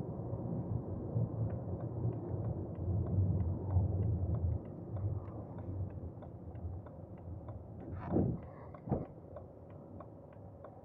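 Cabin sound of a 2006 BMW 318d's four-cylinder diesel running low and steady, growing quieter about halfway through. A light ticking repeats about three times a second, and two brief louder sounds come about a second apart near the end.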